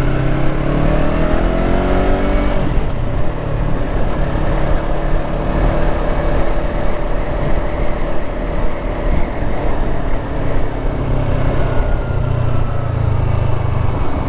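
Yamaha R3's parallel-twin engine under way, its pitch rising over the first couple of seconds as it accelerates, then holding steady, and climbing again near the end, over a steady low rumble.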